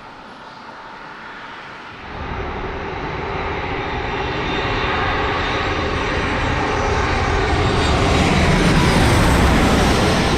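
Jet airliner's engines at takeoff power, the roar starting suddenly about two seconds in and building steadily louder as the aircraft rolls and passes.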